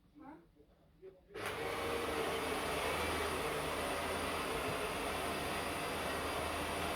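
Vacuum cleaner switched on about a second in, then running with a steady whooshing hum.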